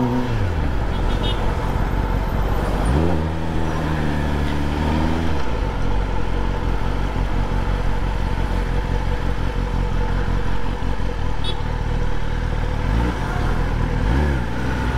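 Kawasaki ZX-10R inline-four running through a freshly fitted Leo Vince aftermarket exhaust while being ridden, over steady wind and road noise. The engine revs up about three seconds in and holds for a couple of seconds, then gives two short blips of throttle near the end.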